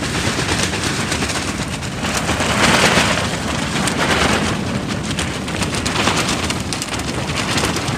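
Strong force-6 wind gusting, with dense rapid crackling and flapping from the plastic film of a vegetable arch tunnel, swelling a few seconds in.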